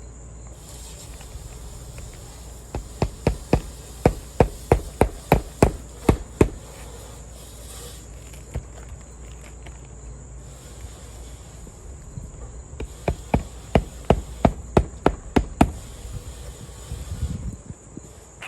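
Hammer driving roofing nails into a new asphalt shingle: two runs of quick, even strikes, about three a second, with a pause between them.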